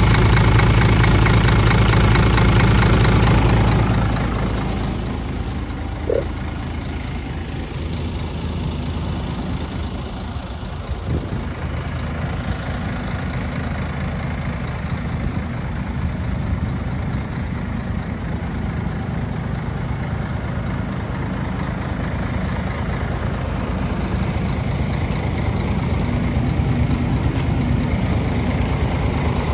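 Scania 124 360 truck's six-cylinder diesel engine running steadily at idle. It runs louder for the first few seconds, then drops to a lower, even idle about four seconds in.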